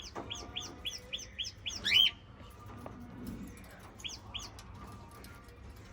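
Small pet parrot chirping: a quick run of about eight short, high chirps, ending in a louder rising call about two seconds in, then two more chirps a couple of seconds later.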